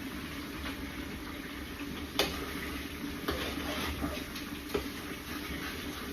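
Kitchen cooking sounds: a steady hiss of food cooking in a pan, with a few sharp knocks of utensils, the loudest about two seconds in.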